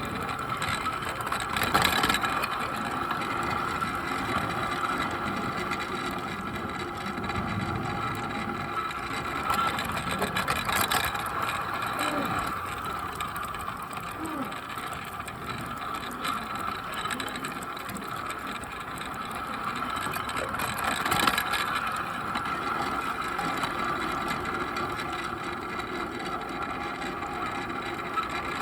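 Bachmann Percy large-scale model locomotive running steadily on its track, a constant whine from its electric motor and gears with wheel and track rattle, and a few sharp clicks from the wheels.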